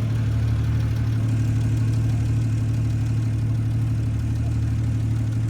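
Jeep engine idling steadily with a strong low hum.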